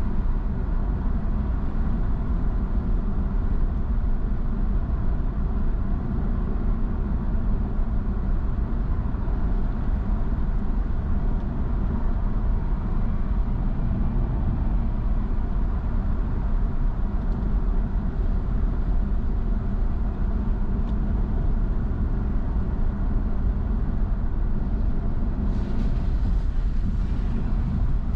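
A car driving, with a steady low rumble of road and engine noise. Near the end a brief hiss joins for a couple of seconds.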